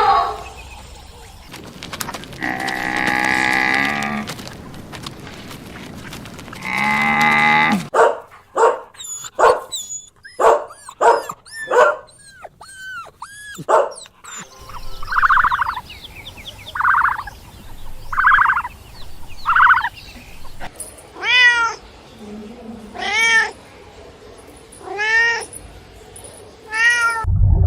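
Cats meowing: a string of separate meows, two long ones first, then a quick run of short mews, then several shorter meows spaced about a second apart, the last ones falling in pitch.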